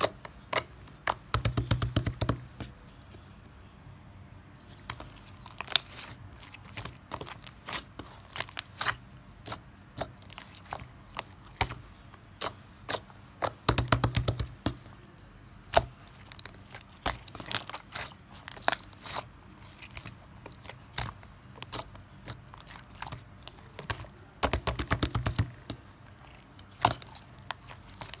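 Repeated crisp crunching and crackling: single sharp clicks with short dense bursts of crackle about two seconds in, around the middle and near the end.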